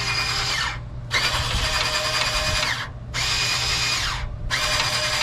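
Power drill running in several bursts of one to two seconds each, its pitch steady within each run and dropping briefly as it winds down between them.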